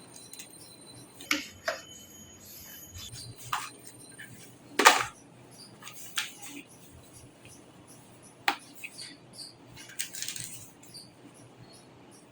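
Scattered light clicks and knocks of computer parts and a metal desktop case being handled, the loudest about five seconds in.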